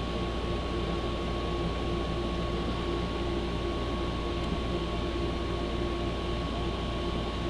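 A steady machine-like hum with a constant high tone over it, unchanging throughout.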